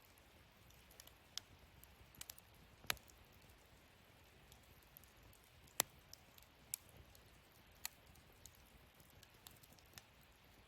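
Wood fire burning in a fire-pit stand, crackling: scattered single sharp pops and snaps over a faint hiss, the loudest pop about six seconds in.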